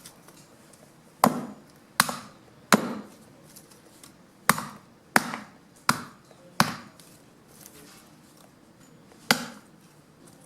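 A blade chopping fallen branches into wood chips: eight sharp chops, in a run of three and a run of four at a steady pace, then one more after a short pause.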